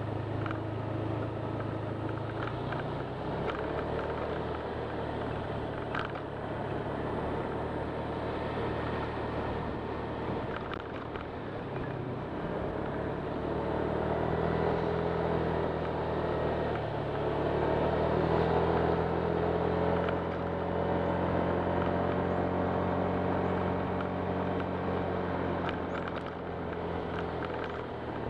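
Honda Click 125 scooter's single-cylinder engine running under way, its note shifting up and down with the throttle and a little louder in the second half.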